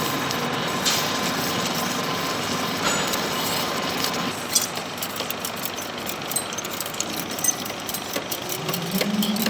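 Vertical drill press running and drilling into a stainless steel plate: a steady machine hiss and hum, with scattered sharp ticks and clicks growing more frequent from about halfway through.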